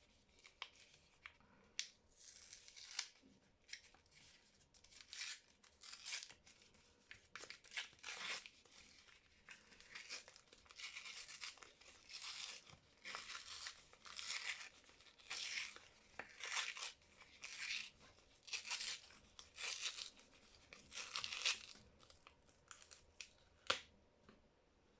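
Soap wrapper being torn and crinkled open by hand: a run of short tearing rips, about one a second, then a single sharp click near the end.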